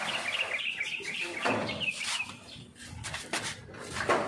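Small birds chirping: a quick run of high, wavering twitters through the first two seconds or so. Near the end come several sharp clicks and knocks as the aluminium sliding door is handled.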